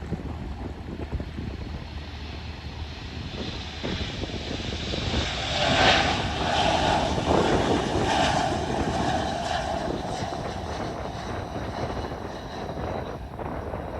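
Jet aircraft engines passing, building to their loudest about six seconds in and then slowly fading away.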